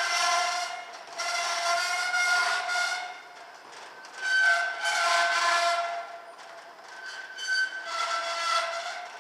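Crows cawing: four drawn-out, harsh pitched calls, one about every three seconds.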